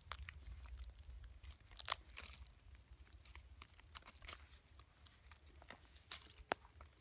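Scattered crackles, snaps and rustles of dry leaves and twigs being handled or stepped on, with a sharper snap just before 2 s and another at about 6.5 s, over a low rumble.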